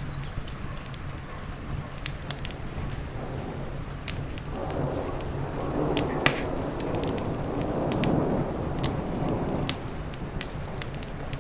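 Rain and thunderstorm ambience mixed with a crackling wood fire, whose sharp pops and snaps come irregularly. Thunder rumbles up about four seconds in, swells and dies away before the end.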